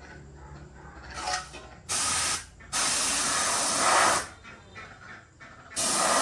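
Hissing spray in repeated bursts: three loud bursts, the longest about a second and a half, with quieter gaps between.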